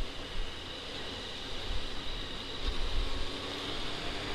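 Wind rushing over the microphone with the steady drone of a Honda CBR600 sport bike's inline-four engine underneath, cruising at an even speed.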